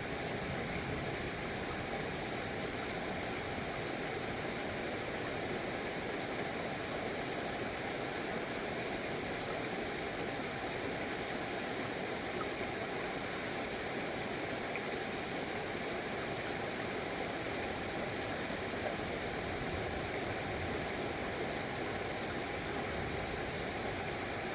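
Steady rain falling, a continuous even hiss with no distinct drops or thunder.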